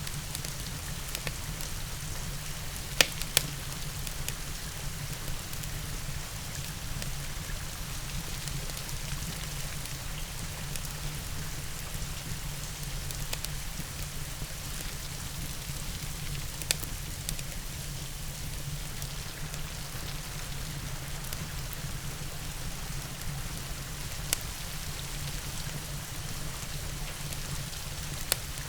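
Steady rain falling, mixed with a crackling wood fire. A few sharp pops stand out: two loud ones about three seconds in, and single ones later.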